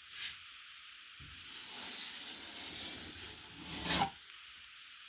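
Drywall taping knife scraping over joint compound and paper tape: a short tap, then a rough scraping stroke of about three seconds that ends in a sharper, louder scrape.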